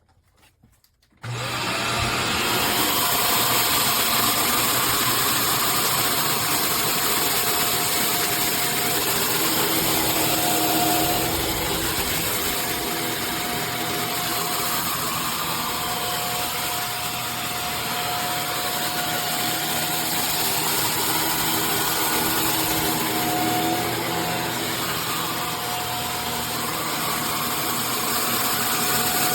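Shark Stratos upright vacuum cleaner switched on about a second in and running steadily, a loud rushing motor noise with a faint tone that drifts in and out.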